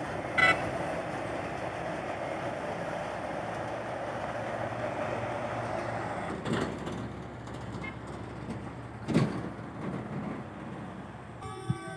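Ballast train hauled by a D9E diesel locomotive rolling away along the track, a steady rumble of wagon wheels on the rails, with a short squeak about half a second in. About six seconds in the rumble gives way to quieter outdoor background with a single thump, and music begins near the end.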